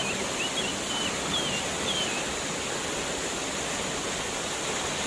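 Waterfall rushing steadily, an even wash of water noise. A few short, high chirps sound over it in the first two seconds.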